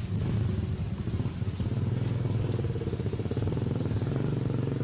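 A small engine running steadily, with an even low pulsing note.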